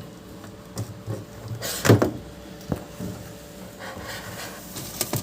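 Handling knocks and clatter on the new Haier washing machine, with one loud thump about two seconds in, a sharp knock soon after and a couple of clicks near the end.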